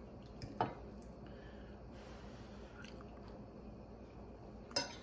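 Quiet chewing of a mouthful of scrambled pizza eggs, with a sharp click about half a second in and another near the end.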